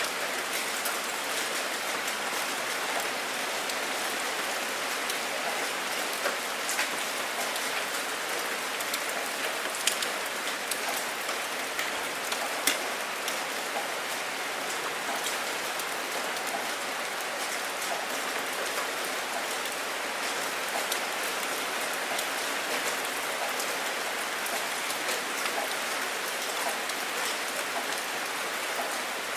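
Steady rain falling: a dense even hiss with scattered individual drops ticking through it, and a few louder single drops, around ten and thirteen seconds in.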